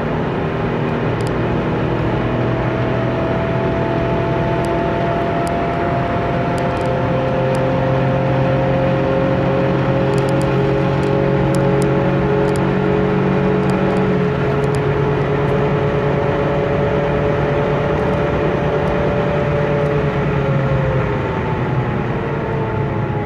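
Mazda 323P's 1.3-litre 16-valve four-cylinder engine pulling under full acceleration, its pitch climbing slowly through the gears. The pitch drops at a gear change about fourteen seconds in, climbs again, then falls near the end as the throttle eases off.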